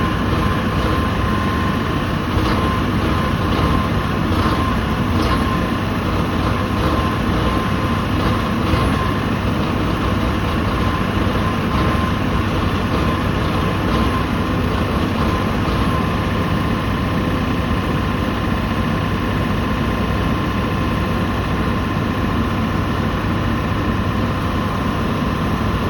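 Caterpillar diesel generator engine running steadily in the cold at about −22 °C, with a steady whine over the engine noise.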